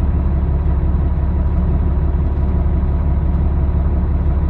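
Semi-truck diesel engine idling, a steady low rumble heard inside the cab.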